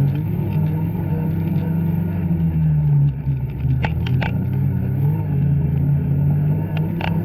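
Two-stroke snowmobile engine running, its revs rising and falling, with a few short sharp clicks about four seconds in and again near the end.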